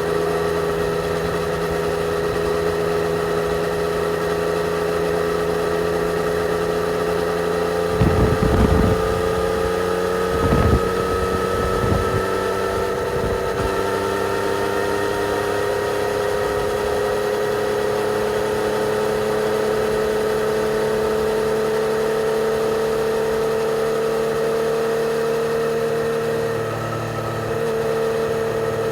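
2020 Yamaha XSR 900's 847 cc three-cylinder engine with stock exhaust, running under steady throttle on the move, its note rising slowly. A few low thumps come between about eight and twelve seconds in, and the engine note dips briefly near the end.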